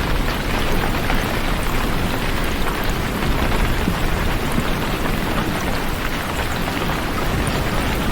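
Steady heavy rain: a dense, even hiss of falling water with scattered individual drop ticks and a constant low rumble underneath.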